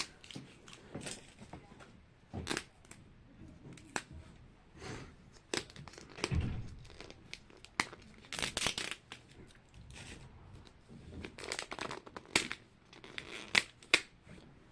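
Plastic packaging being handled: intermittent crinkling and tearing rustles with scattered small clicks, the longest rustle about two-thirds of the way through.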